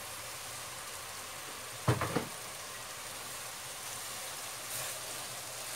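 Steady frying sizzle from lamb meatballs cooking in a frying pan, with one sharp knock about two seconds in.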